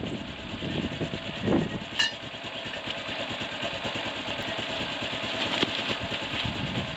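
Steady storm wind noise, with rustling in the first couple of seconds and a single sharp metallic clink about two seconds in.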